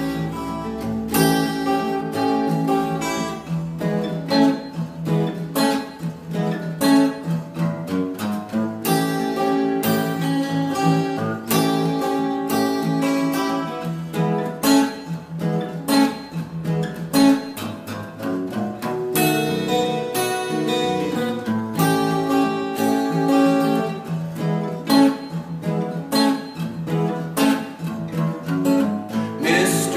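Acoustic guitar strummed in a steady blues rhythm: an instrumental intro with no singing.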